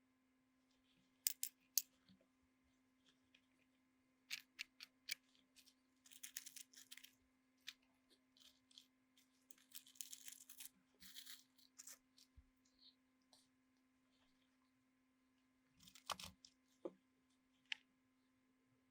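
Small handling noises: scattered sharp clicks and short scratchy rustles, busiest around the middle and again near the end, over a faint steady hum.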